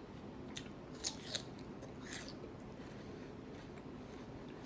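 A person chewing crisp food close to the microphone: a few faint, crisp crunches in the first couple of seconds, over a low room hum.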